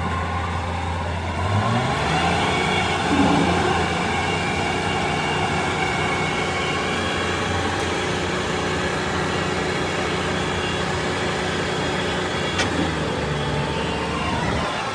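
Combine harvester running: its diesel engine revs up about two seconds in, then runs steadily with the machine's dense mechanical noise.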